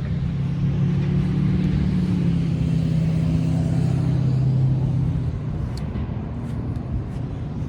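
A motor vehicle passing on a nearby busy road: a steady engine drone that is loudest for the first five seconds, then fades away.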